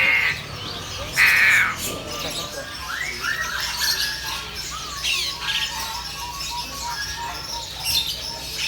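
Many caged birds chirping and whistling together, with two loud harsh squawks near the start: a short one at the beginning and a longer one about a second in.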